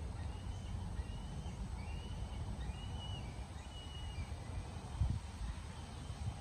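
A bird calling a run of short, high, slightly arched notes, a little under two a second, that fade out after about four and a half seconds, over a steady low rumble. A single thump about five seconds in.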